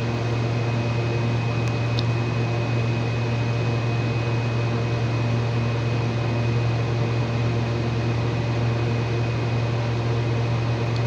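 Steady low electric hum of a running appliance motor, with a faint thin high whine above it. There is one faint tick about two seconds in.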